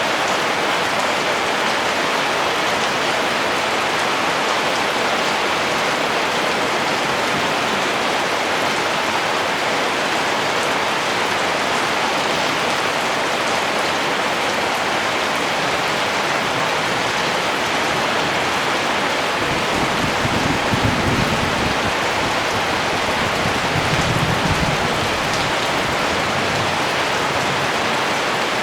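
Steady rain falling on surfaces, an even hiss of drops. Two brief low rumbles come through about two-thirds of the way in.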